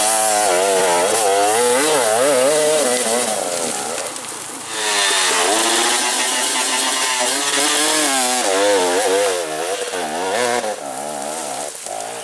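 Dirt bike engine revving hard, its pitch rising and falling rapidly over and over as the throttle is worked, with a brief drop in revs about four seconds in.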